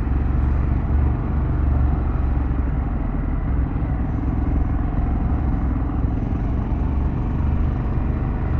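Harley-Davidson Pan America's Revolution Max 1250 V-twin engine running steadily at low road speed, with wind and road noise.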